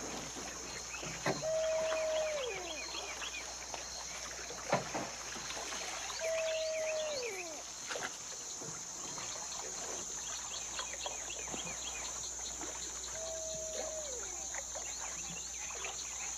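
Night swamp ambience: a steady high drone of insects and a scatter of short chirps, probably frogs. Three times, an animal gives a held call that then slides down in pitch. A few sharp knocks are heard in the first half.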